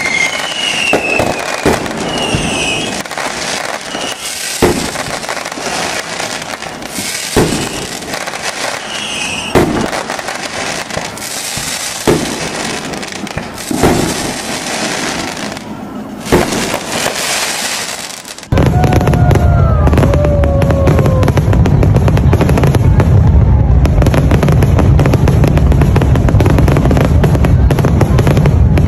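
Fireworks display: aerial shells bursting with sharp bangs roughly every two seconds amid crackling, with falling whistles near the start. About two-thirds of the way through, the sound switches abruptly to a loud, steady low rumble with faint whistles over it.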